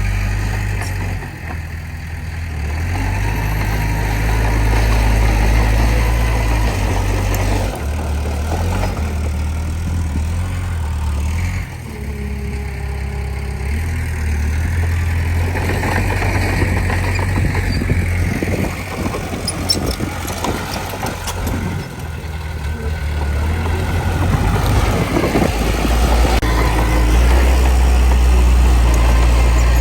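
Komatsu D20P bulldozer's diesel engine running under working load, its low rumble rising and falling every few seconds as the machine works.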